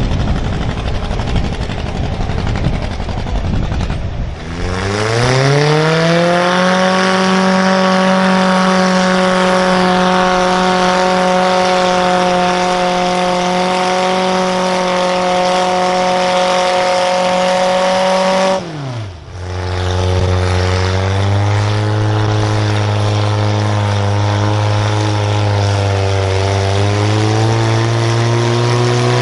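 Engine of a pulling tractor or truck under hard throttle: after a rough rumble it revs up about four seconds in and holds a steady high pitch, then drops sharply in pitch and settles into a lower engine note that climbs slowly near the end.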